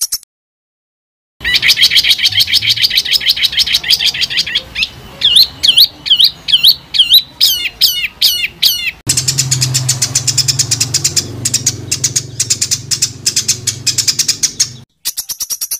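Recorded songbird calls in quick 'tembakan' bursts. After a short silence comes a fast run of repeated high notes, then sweeping notes about two a second. About nine seconds in, a different recording starts, with rapid high chattering over a low hum.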